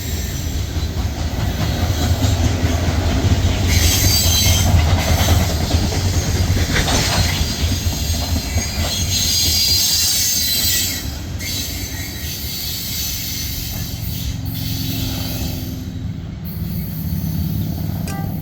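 Train rolling past with a steady rumble of wheels on rail. The wheels squeal high and thin twice, about 4 and about 9 seconds in. The sound eases after about 11 seconds.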